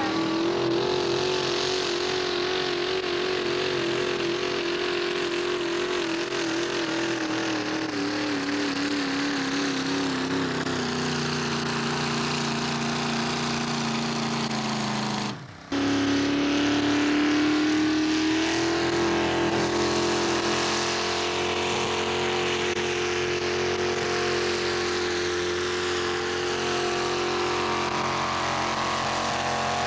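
Mini-modified pulling tractor engine running at high revs under load, with a wavering pitch that sags slowly. The sound cuts out briefly about halfway through, then an engine runs on at a higher, steadier pitch.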